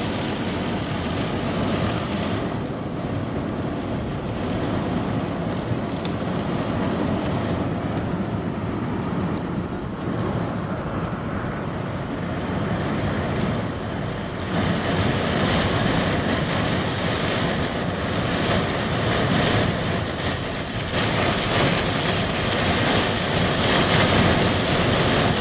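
Heavy rain and wind lashing a van, heard from inside the cabin as a steady rushing noise. The downpour grows heavier a little past halfway.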